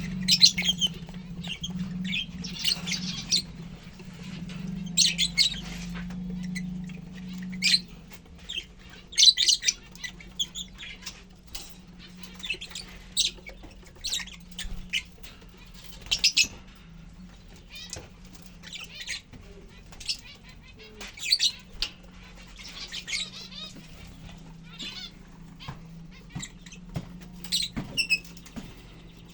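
Lovebirds giving short, high-pitched chirps and squawks at irregular intervals, over a steady low hum.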